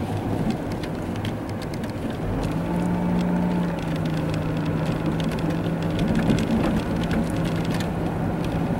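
Car cabin noise while driving through a snowstorm: a steady engine and tyre drone, with a steady hum that comes in about two and a half seconds in. Scattered light ticks of wind-blown snow and ice hitting the car run throughout.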